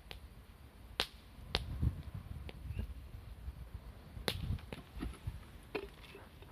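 Wood fire crackling, with a few sharp pops spaced irregularly, the loudest about a second in and again just past four seconds, over a low uneven rumble.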